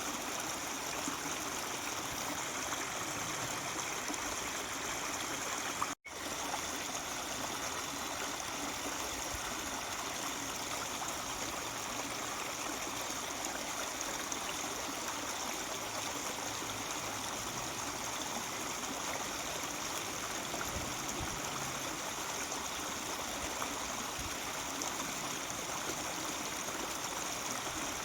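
Mountain stream babbling steadily over rocks. The sound cuts out for an instant about six seconds in.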